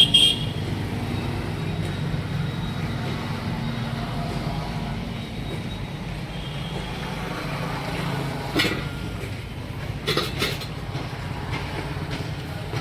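A steady low mechanical hum, like an engine running, with a few short knocks or clanks near the end.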